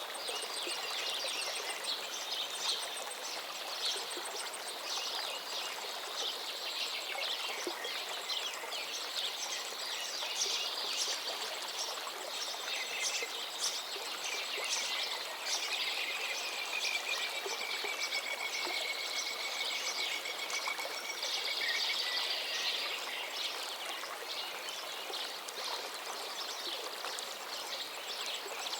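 Forest river flowing steadily while many songbirds sing over it in overlapping chirps and trills, with one long, slightly falling whistled note held for several seconds near the middle.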